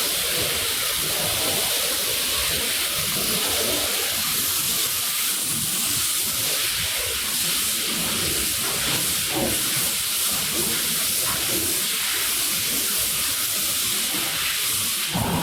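Steady hiss of a high-pressure water spray hitting a soaked rug, with a rough, spattering texture under it.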